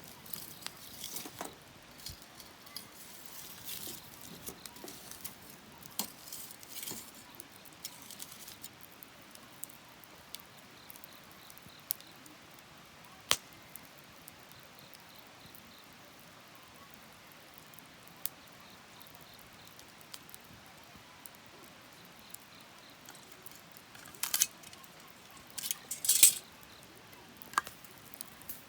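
Wood fire crackling, with scattered sharp pops. Clusters of crackling come in the first several seconds and again near the end, and the loudest pop is near the end.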